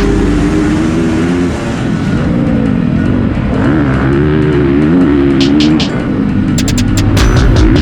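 Motocross bike engine revving up and down repeatedly as it is ridden hard round the track. Electronic music with sharp beat clicks plays over it from about five seconds in.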